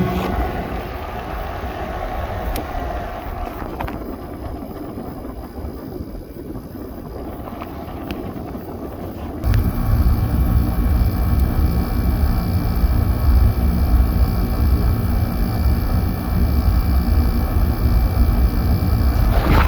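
Samsung window air conditioner running. About halfway through, the compressor kicks on with a sudden jump in level to a louder, steady hum with a low drone and a few steady tones.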